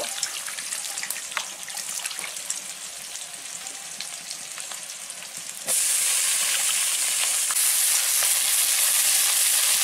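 Onions frying in hot oil in a wok, sizzling with scattered crackles. About six seconds in, wet chopped potato and taro pieces go into the oil and the sizzle jumps to a much louder, steady hiss.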